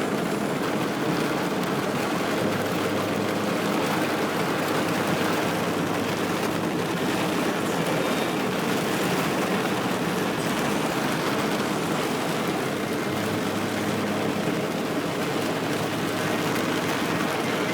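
Steady rushing of flash-flood water, with a faint low hum underneath.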